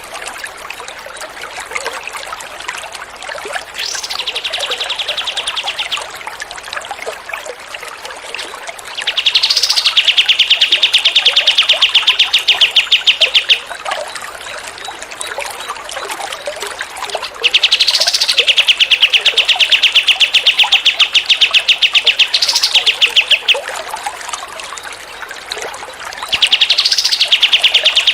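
Recorded songbird song over a steady trickle of water: a rapid, even trill held at one high pitch, each phrase opening with a short rising note. Four trill phrases of a few seconds each, the first one fainter.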